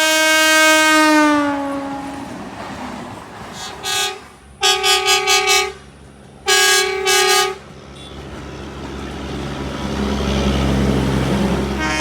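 Train horn sounding: a long blast that drops in pitch in the first second or so, then two bursts of short toots about four to seven seconds in. A low rumble grows louder near the end.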